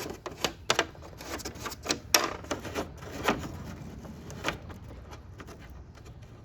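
Irregular sharp clicks and knocks of hand work on parts and tools, several strokes a second at first and thinning out after about four and a half seconds.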